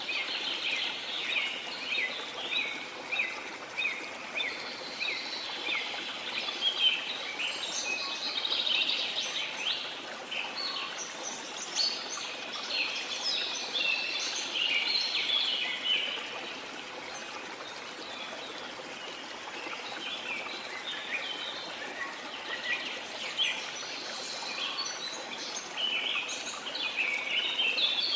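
Many birds chirping and calling in quick, overlapping notes over the steady rush of a waterfall. The bird chatter thins for a few seconds past the middle and picks up again near the end.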